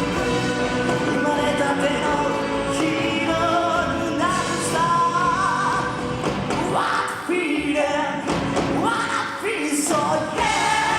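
A live band playing a song, with a lead singer's voice carried over the instruments.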